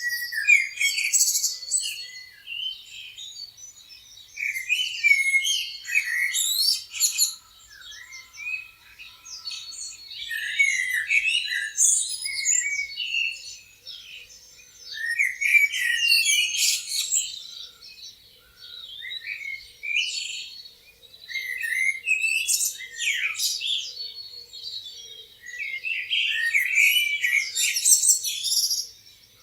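Several songbirds chirping and trilling in overlapping bouts that come and go every few seconds, high-pitched and busy.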